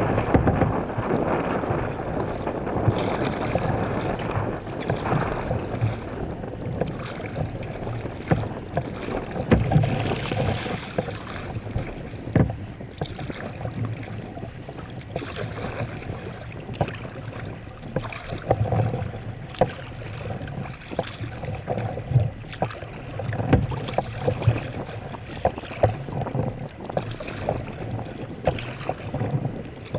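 Sea kayak under way on choppy water: irregular splashes and knocks of the paddle and of water slapping the hull, with wind on the microphone.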